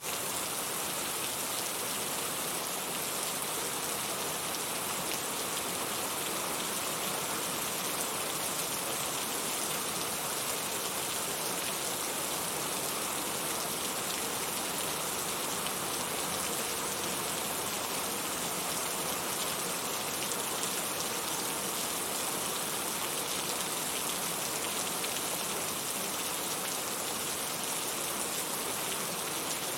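Steady rainfall, a constant even hiss of raindrops on a surface, with no let-up or change.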